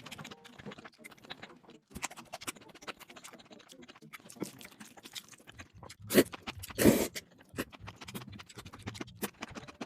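Close-miked eating of noodles: a steady run of small wet chewing clicks and smacks, with two louder noisy bursts about six and seven seconds in.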